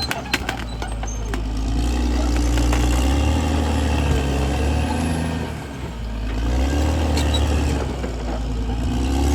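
CAT D6R XL bulldozer's diesel engine working, its pitch sagging and recovering a few times as the load changes, with a few sharp clanks just after the start.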